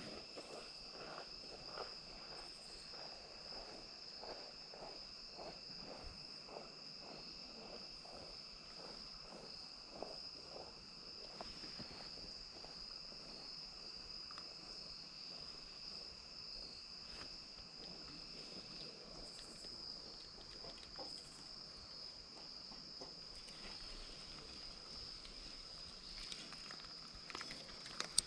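A steady, high-pitched insect chorus trilling throughout, with a second, lower trill that drops out about two-thirds of the way in. Footsteps on the creek bank, about two a second, go on through the first third and then stop.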